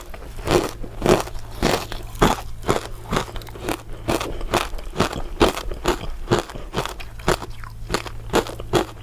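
Close-miked biting and chewing of crisp translucent crystal ice dessert pieces: a steady run of crunches, about two a second.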